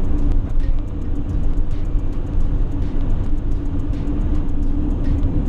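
Mercedes Sprinter camper van driving: a steady low road rumble with an engine drone, and frequent small ticks over it.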